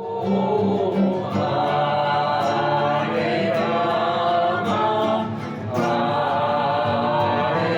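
A group of voices singing a mantra together in kirtan fashion, on long held notes, with a brief break in the phrase about two-thirds of the way through.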